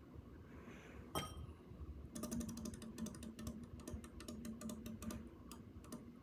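Harbor Breeze Barnstaple Bay ceiling fan running on low speed. There is a single sharp click about a second in. From about two seconds in, a rapid, irregular ticking with a faint steady hum runs for about three seconds. The noise comes from the fan's bearings, which the owner says sound really nasty and not good.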